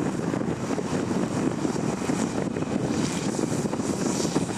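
Jet airliner engines heard from the airfield perimeter as a steady rumble, with a hiss that grows brighter in the second half.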